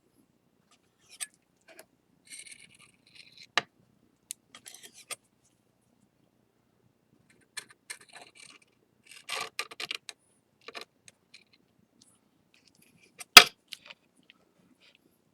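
A small hand tool scraping and clicking against a mended ceramic plate, taking excess lacquer paste off the joins in short, scattered strokes. There is a sharp click near the end and a smaller one a few seconds in.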